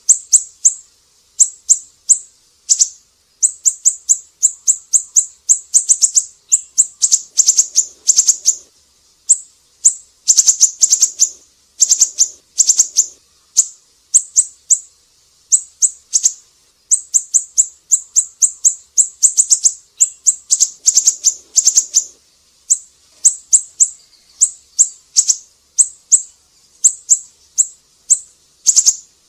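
Siri-siri bird singing vigorously: quick clusters of short, sharp, high chirps that follow one another with barely a pause.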